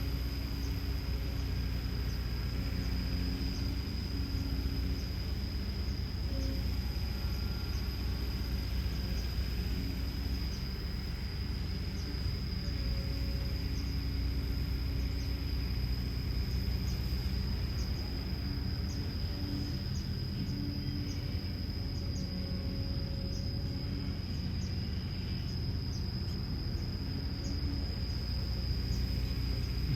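Kobelco SK210LC excavator's Hino J05E-TG four-cylinder turbo-diesel running steadily at a constant speed: a low, even engine hum with a steady high tone over it.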